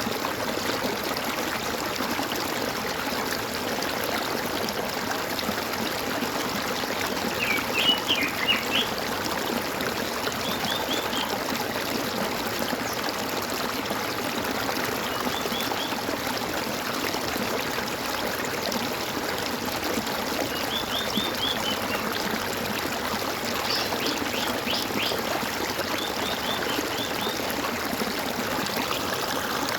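Steadily gurgling, trickling stream water, with small birds chirping in short quick runs every few seconds; the loudest run comes about a quarter of the way in.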